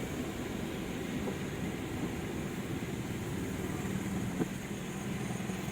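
Steady low rumble of outdoor noise, with a faint hum in the middle stretch and a single short tick about four and a half seconds in.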